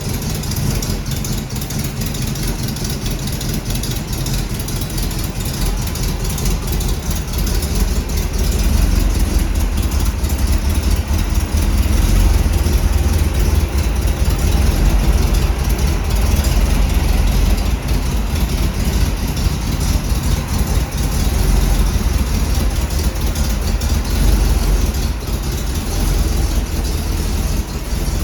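A 350 small-block Chevrolet V8 in a 1939 Ford running steadily, getting louder from about eight seconds in and settling back near the end.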